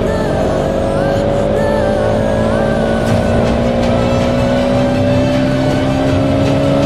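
Motorcycle on the move, with heavy low wind rumble and a steady whine that slowly rises in pitch as it gathers speed, under faint music.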